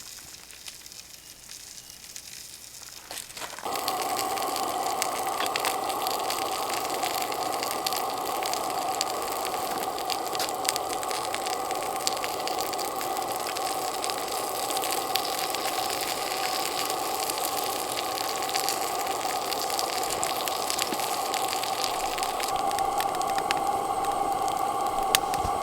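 Gas lantern lit and burning with a steady hiss that starts suddenly about four seconds in and holds even, over faint crackling.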